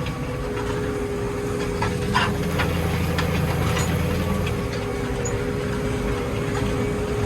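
New Holland T7220 tractor's six-cylinder diesel engine running steadily under ploughing load, heard from inside the cab, with a steady whine over the drone. The low drone grows heavier for a couple of seconds around the middle.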